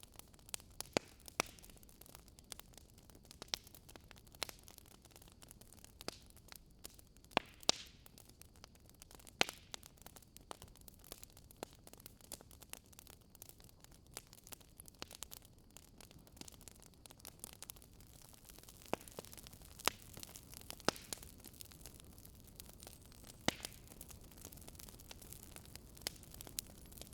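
Wood fire crackling: irregular sharp pops and snaps of burning firewood over a soft steady hiss.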